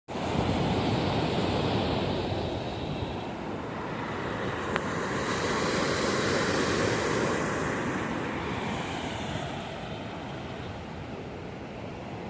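Steady rushing outdoor noise that swells to a peak about six seconds in and eases off, with a high hiss that drops away near the end.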